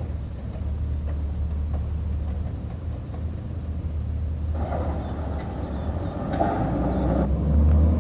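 Garbage truck engine running with a steady low rumble. A louder, noisier stretch comes in about four and a half seconds in and cuts off about seven seconds in.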